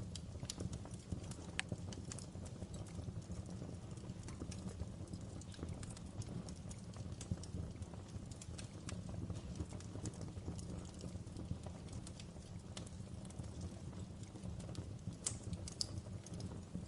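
Wood fire crackling in a fireplace: a steady low rumble with scattered sharp pops and crackles, a few louder ones standing out.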